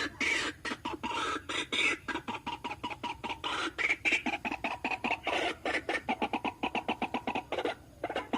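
White-breasted waterhen calling: harsh repeated croaking notes, longer at first, then a fast run of short notes that speeds up, broken by a short pause near the end.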